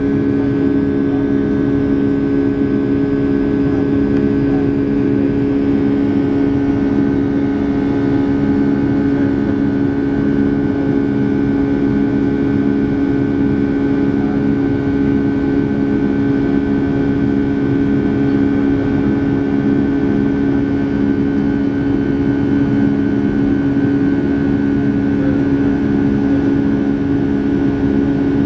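Steady drone of a Boeing 757's jet engines heard inside the passenger cabin, a continuous rumble with a few steady humming tones.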